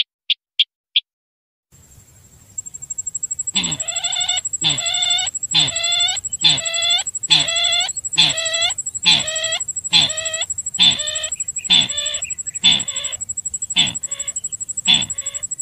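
Lure recording of the sintar bird's call played back: a run of about a dozen calls, a little under one a second, over a steady high thin whine. A quick series of short high pips, about four a second, ends about a second in before a brief gap.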